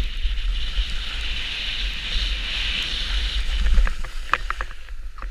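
Steady scraping hiss of sliding over snow, with wind buffeting the microphone, then a few sharp clattering knocks near the end.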